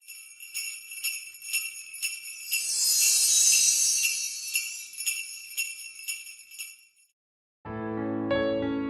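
Jingle bells shaken in a steady beat about twice a second, with a louder sustained shake around the third second, stopping after about seven seconds. After a brief pause, piano chords begin near the end as the song's intro.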